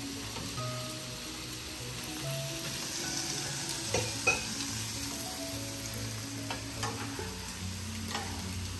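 Chicken, bell pepper and carrots sizzling steadily in oil in a wok on a gas burner, with a few light clicks scattered through.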